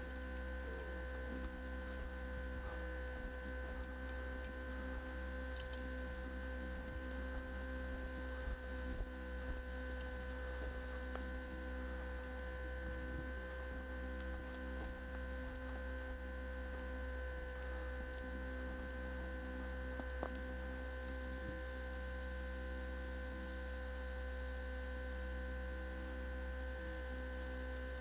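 Steady electrical hum, a low drone with several fixed higher tones over it, and a few faint clicks.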